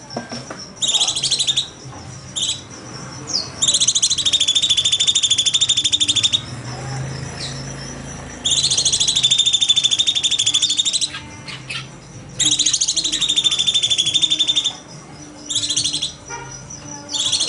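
Cucak cungkok singing: loud, rapid buzzy trills, each phrase held for two to three seconds, repeated three times with short sharp notes in the gaps between.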